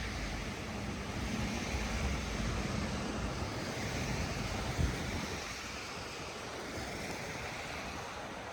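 Steady outdoor street ambience: a rushing wash of traffic and wind. A vehicle's low rumble fades out about halfway through.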